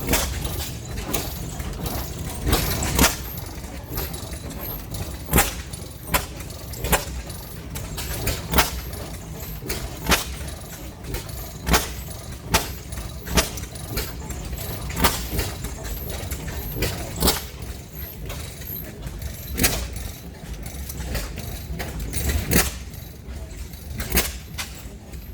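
Several old slow-running oil field engines firing, their exhaust giving sharp irregular pops about once or twice a second over a low steady rumble.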